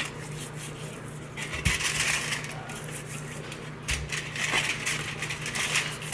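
Hands rubbing seasoning into raw potatoes, a wet, hissy rubbing in spells, with a couple of light knocks and clinks from handling the potatoes.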